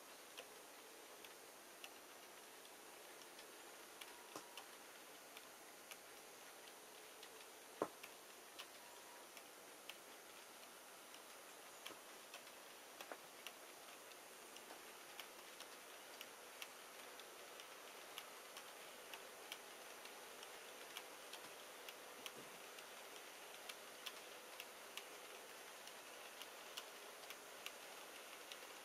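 Faint clicking of an HO-scale model freight train's wheels running over the rail joints, the clicks coming closer together and a little louder towards the end, with one sharper click about eight seconds in.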